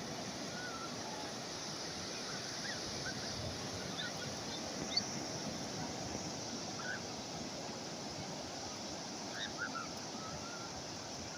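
Calm sea waves washing steadily on the shore, with scattered short bird calls over them and one brief sharp call about halfway through.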